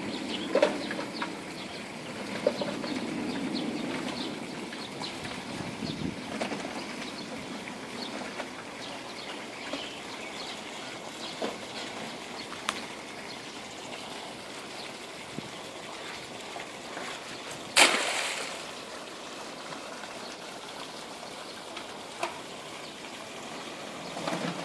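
Water trickling and splashing at a pond's edge, with scattered small splashes and clicks and one loud sharp splash or knock about 18 seconds in.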